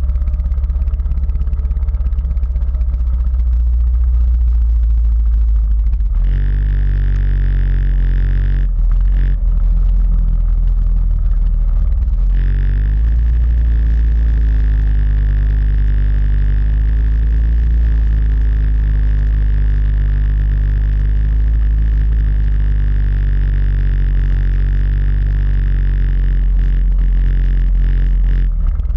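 Quad bike (ATV) engine running steadily while riding, with a heavy low rumble. A steady whine joins in about six seconds in and carries on, dropping out briefly twice a few seconds later.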